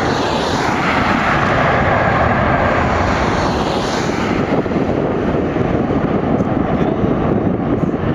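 Boeing 737-800 airliner's CFM56-7B turbofan engines, a loud, steady jet rush as the aircraft comes in to land.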